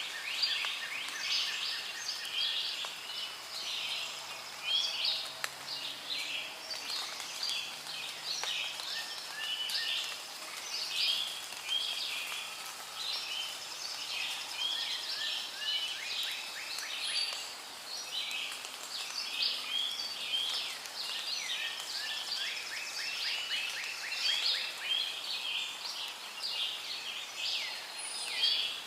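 Rainforest ambience: many birds calling and chirping at once, short overlapping calls and quick chirp series, over a steady soft hiss.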